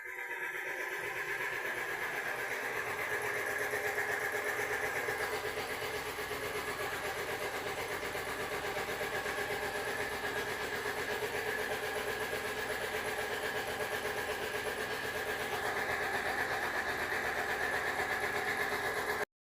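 Car engine running steadily at a constant speed, with a fast even pulsing, cutting off suddenly near the end.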